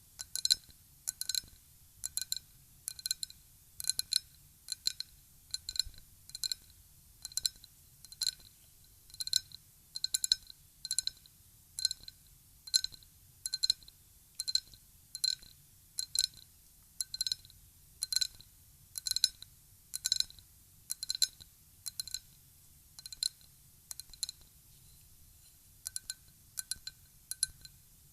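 Ryukyu glass tapped lightly over and over: short glassy clinks, often in quick pairs, about one to two a second, each ringing briefly at a few clear high pitches.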